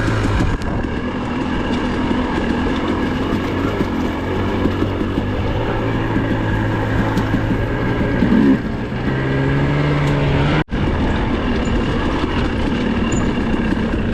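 Dirt bike engine running at a steady pitch, stepping up to a higher note about nine seconds in. The sound drops out for an instant near eleven seconds.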